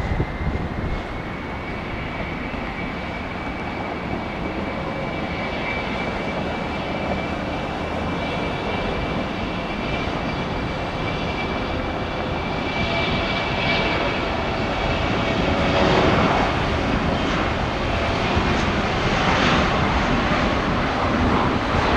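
Boeing 717-200 airliner's twin Rolls-Royce BR715 jet engines at departure power, a steady rumble with a high whine, slowly growing louder.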